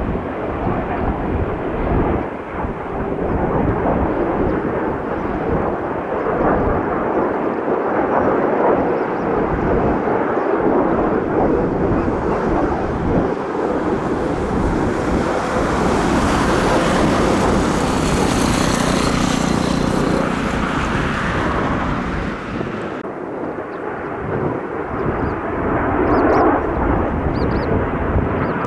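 Jet roar of Kawasaki T-4 jet trainers flying the display, a steady loud rush with low rumbling. A high hissing whine builds from about halfway as the jets pass closest, then cuts off abruptly near the end.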